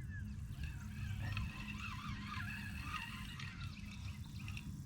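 Steady outdoor background of wind and rain noise, with many short, faint chirping calls throughout.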